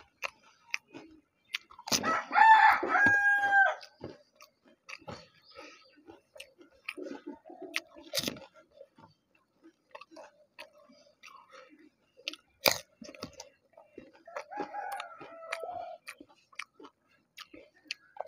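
Close-up crunching and chewing of crisp fuchka (pani puri) shells filled with tamarind water, with many small crackles and wet mouth clicks. A rooster crows loudly about two seconds in, the loudest sound here, and a fainter call follows later.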